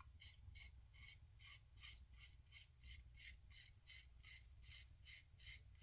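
Faint, quick scratchy strokes of a 1958 Gillette TV Special double-edge safety razor cutting through lathered stubble, about three strokes a second.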